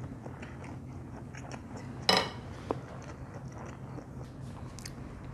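A person chewing a mouthful of stir-fried ramen noodles with the mouth closed, with small scattered clicks of chopsticks on the serving tray. There is one brief louder sound about two seconds in.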